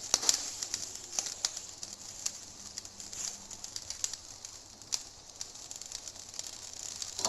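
Scattered light clicks and taps of kitchen utensils against a pot, about half a dozen, over a faint hiss, while food colouring is added to the layered biryani rice.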